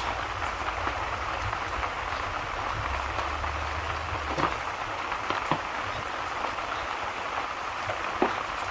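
Steady rainfall hiss with a few sharp crackles scattered through it, over a low rumble that falls away about halfway through.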